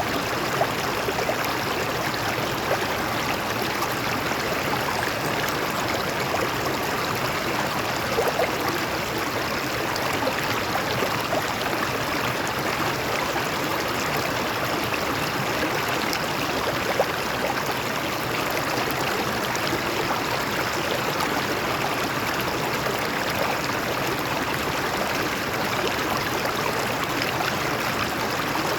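Stream water flowing steadily over rocks, a constant rushing with small splashes and gurgles.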